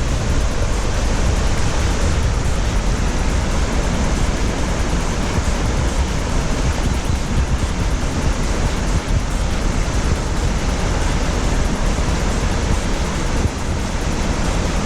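Waterfall cascade rushing: a loud, steady, even wash of falling water.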